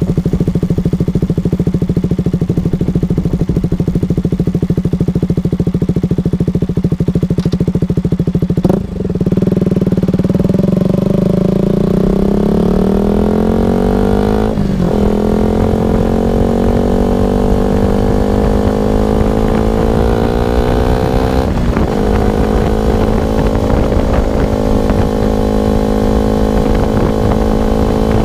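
KTM RC single-cylinder engine through an R9 aftermarket exhaust, holding steady revs and then accelerating through the gears. There are upshifts about nine, fifteen and twenty-one seconds in, with the pitch dropping at each shift and climbing again.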